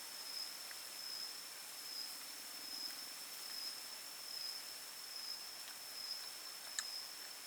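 Insects droning steadily on one high pitch with a slight waver, over a faint background hiss, with a single short click near the end.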